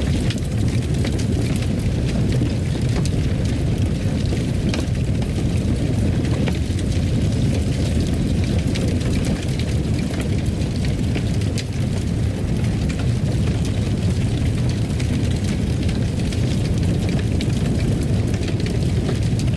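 Fire burning in a fireplace: a steady low roar with scattered crackles and pops throughout.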